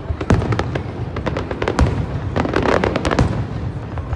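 Fireworks going off: a rapid string of sharp bangs and crackles, densest and loudest about two and a half to three seconds in, thinning out near the end.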